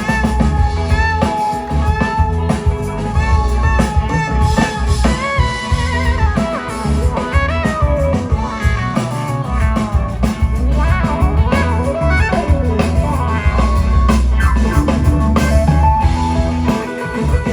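A live band playing blues-rock: electric guitar lead with bent, sliding notes over bass guitar and a drum kit.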